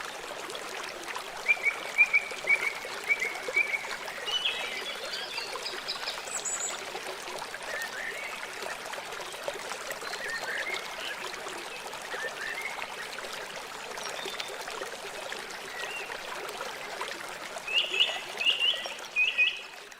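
River water flowing steadily, with birds chirping over it: a run of quick repeated chirps in the first few seconds, scattered single notes in the middle, and a short burst of chirps near the end.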